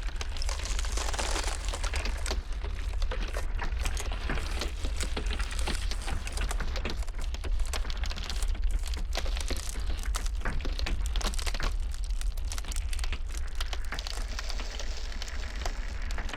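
Ice crackling and cracking continuously in dense, irregular clicks, over a steady low blizzard wind rumble.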